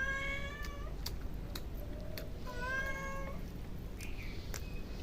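A cat meowing twice, each meow under a second long, then a short fainter call near the end, with scattered soft clicks between.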